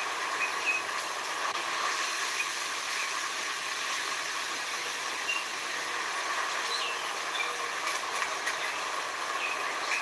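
Steady hissing nature ambience with short, faint bird chirps scattered through it.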